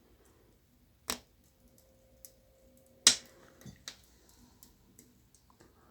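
A few sharp ticks from the burning wood stove, two of them loud and about two seconds apart, over quiet room tone with a faint steady hum.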